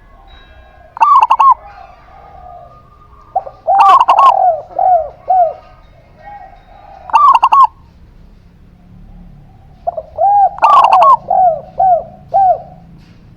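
Zebra dove (perkutut) and spotted dove (derkuku) cooing. There are four bouts of quick, rounded coo notes, each rising and falling in pitch, separated by short pauses; the last and longest bout comes near the end.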